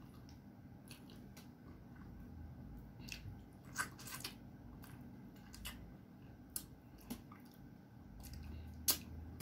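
Close-up eating sounds: wet chewing and lip smacks with scattered short clicks as fish head stewed in vinegar is eaten with the fingers. A sharper smack comes about four seconds in and again near the end.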